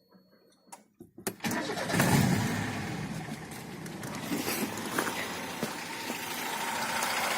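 A few clicks, then a VAZ-2105's fuel-injected 1.7-litre four-cylinder engine, built with a Niva crankshaft and camshaft and shortened connecting rods, is cranked and catches a little over a second in. It flares up loudest right after starting, then settles into a steady run.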